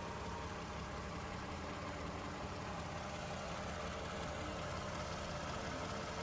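Toyota Estima GSR55W's 2GR V6 engine idling steadily.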